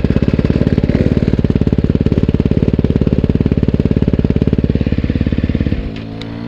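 Motorcycle engine running close by at a steady speed with a rapid, even pulsing beat; it shuts off abruptly about six seconds in, and another engine begins rising in pitch near the end.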